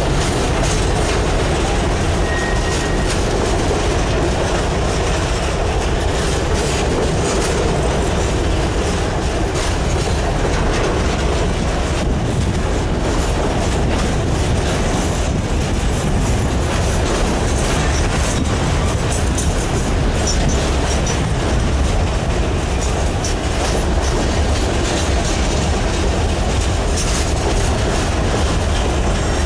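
Norfolk Southern coal train's freight cars rolling past close by at a steady speed: a continuous rumble of steel wheels on rail, with clicking over the rail joints.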